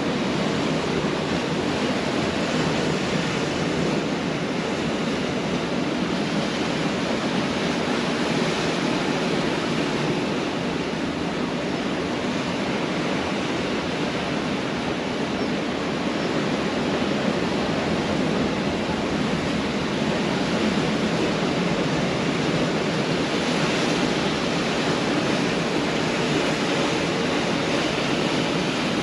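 Pacific Ocean surf: a continuous wash of breaking waves, swelling gently and easing in level every several seconds.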